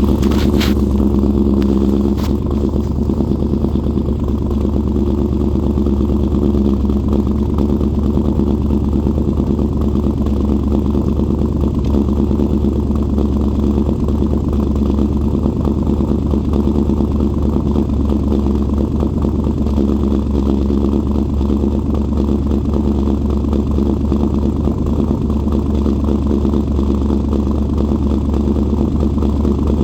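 Vehicle engine idling steadily while warming up after a cold start. There are a couple of brief sharp sounds in the first two seconds, and the idle settles slightly lower after that.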